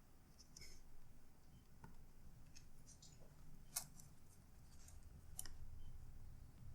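Faint scattered clicks and ticks of laptop parts being handled and lifted apart, with a couple of sharper clicks in the second half.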